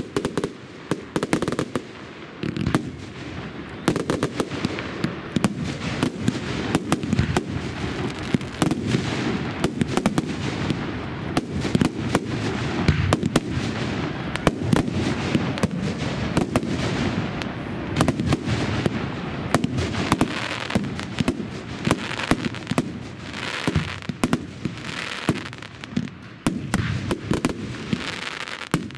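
Fireworks display: a rapid, unbroken barrage of sharp bangs and crackles over a continuous low rumble of bursts.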